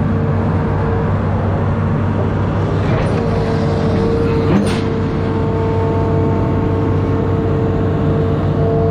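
Amphibious excavator's diesel engine running steadily, a low drone with a few steady higher tones over it, and a single short clank about halfway through.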